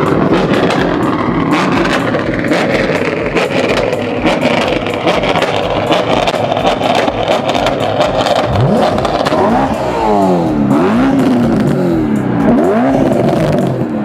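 Car engine revving: a loud rush with many sharp crackles, then from past halfway a series of quick revs whose pitch rises and falls several times.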